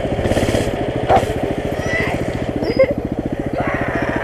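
Mini bike's small single-cylinder engine running steadily at idle with an even, unchanging pulsing beat, with two brief hissing bursts of noise in the first second or so.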